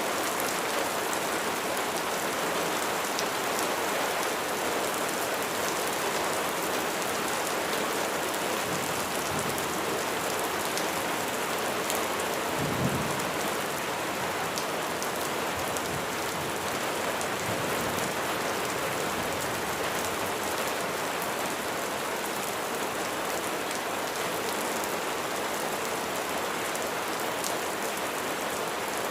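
Steady rain falling on a surface, a dense even hiss with scattered individual drop ticks, and a brief low rumble about thirteen seconds in.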